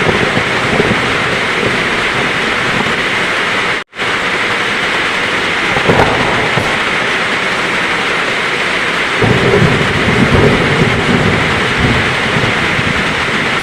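Heavy rain pouring steadily in a thunderstorm, with a low rumble of thunder building about two-thirds of the way in. The sound cuts out to silence for an instant about four seconds in.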